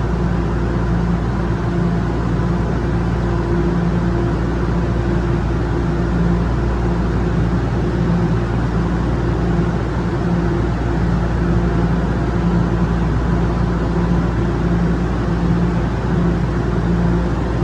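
Toronto subway train at a station platform: a steady, loud low hum with a pulsing tone.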